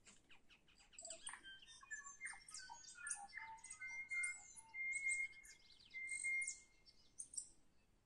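A songbird singing: a run of quick clicks, then a fast, varied song of high whistles and chattering notes with a few longer held notes, stopping about half a second before the end.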